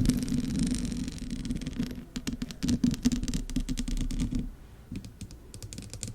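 Close-miked ASMR trigger sounds: a soft hiss, then about two seconds in a fast patter of light taps and clicks like rain, thinning out and getting quieter near the end.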